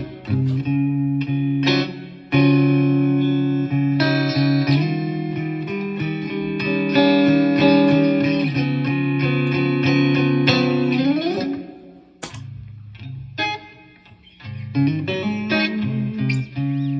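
Donner DST-100L S-type electric guitar played through an amplifier: sustained, ringing chords and single notes, with a slide upward in pitch about eleven seconds in. After a brief lull the playing picks up again near the end.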